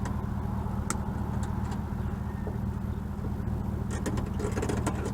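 Motor vehicle engine running steadily with a low, even drone. A few sharp clicks and rattles come about a second in and again around four seconds in.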